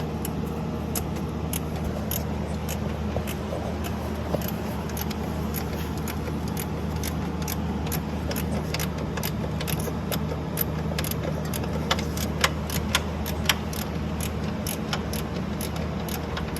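Irregular sharp metal clicks and taps of hand tools working a nut onto the bolt of a new upper control arm, a few per second, with a cluster of louder ones near the end, over a steady low hum.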